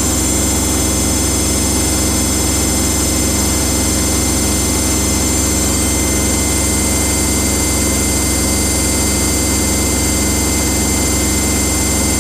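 Samsung front-loading washing machine spinning its drum in service mode: a steady, unchanging run of motor and drum noise with several constant tones.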